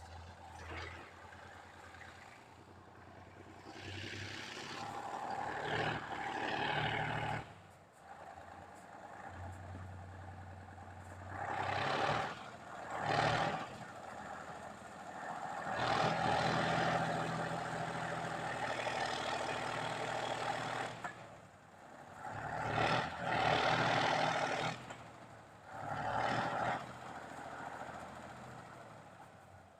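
KhTZ T-150 tractor's YaMZ-236 V6 diesel running and revving up and down again and again, with several louder surges.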